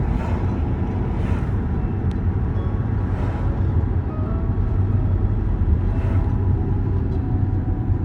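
A car running, a steady low rumble.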